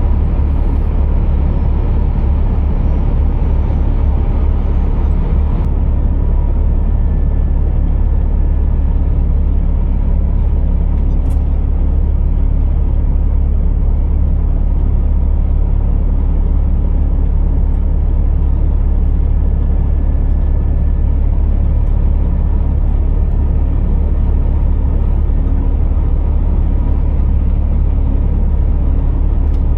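Scania R480 heavy truck running: a loud, steady low drone of engine and road noise that does not change, with a faint thin whine above it.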